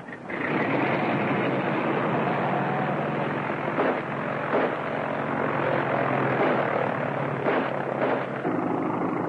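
Steady motor-vehicle engine drone from a chase scene, on a hissy, narrow-band 1930s film soundtrack, with a few brief sharp noises about four and eight seconds in.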